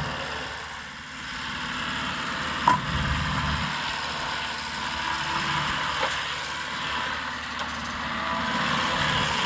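Skid-steer loader's diesel engine running, its level dipping and rising, with a sharp loud clank about two and a half seconds in and two lighter knocks later.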